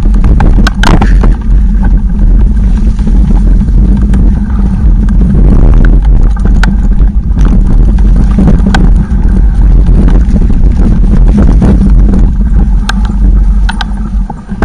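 Loud, steady low rumble with frequent sharp knocks and rattles, as from a bicycle and its mounted camera jolting over a rough trail at speed.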